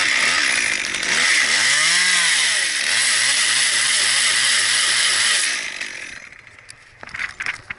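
Two-stroke chainsaw cutting into cottonwood, its engine pitch sagging and recovering as it bogs under load. The cut runs for about five and a half seconds, then the saw drops off and a few sharp clicks follow.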